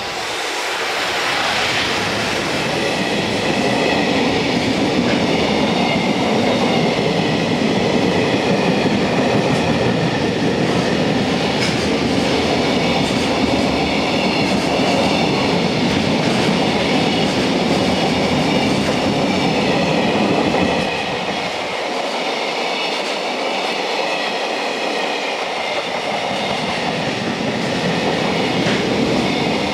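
A JR Freight EF210 electric locomotive runs past, followed by a long freight train of container wagons rolling steadily by, wheels running on the rails. The train is loud; its deep rumble drops away about three-quarters of the way through, then returns more faintly.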